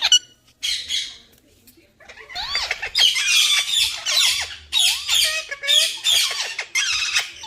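Green parrots squawking: two short harsh squawks in the first second, then from about two seconds in a continuous run of rapid screeching calls that swoop up and down in pitch.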